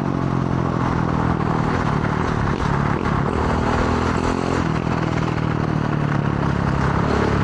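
Combustion engine idling steadily.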